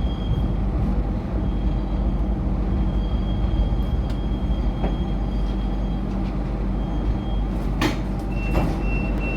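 MTR Light Rail train running along the track, heard inside the car: a steady rumble with a faint high whine that comes and goes. A few sharp clicks near the end, and a pulsing high tone begins just before it ends.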